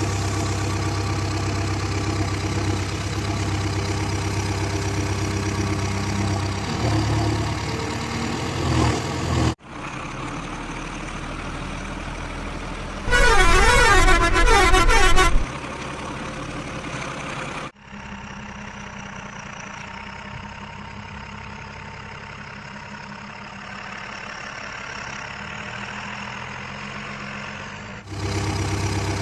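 Heavy diesel engines running steadily, broken by abrupt cuts between clips. Partway through, a loud warbling vehicle horn blares for about two seconds over a quieter engine.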